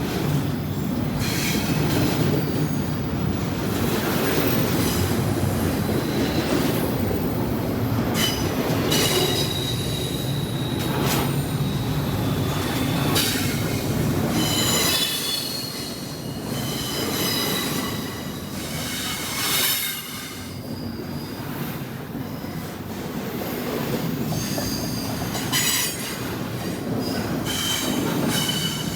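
Freight train cars rolling past, with thin, high wheel squeal and repeated clicks of wheels over rail joints. The rumble is heavier in the first half and eases about halfway through.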